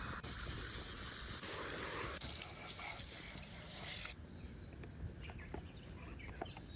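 Steady rush of running water that cuts off abruptly about four seconds in, followed by a few short, downward-sweeping bird chirps and light clicks.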